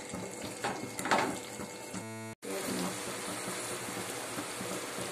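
Chicken pieces frying in masala in a kadai: a steady sizzle, with a wooden spatula stirring and scraping the pan in the first two seconds. About two seconds in, a short buzz and a sudden break, then the sizzle runs on as the water from the chicken cooks off.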